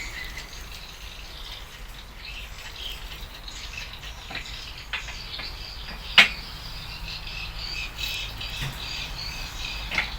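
Steady chirping of insects, with a few sharp taps or clicks, the loudest about six seconds in.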